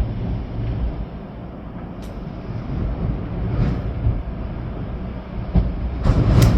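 Storm-force wind gusting, with a heavy low rumble that swells and eases, mixed with rain. A few short sharp hits break through, the loudest cluster near the end.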